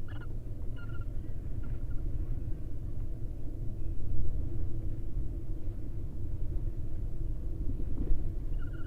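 Steady low outdoor rumble, with a few short, faint bird chirps near the start, about a second in, and again near the end.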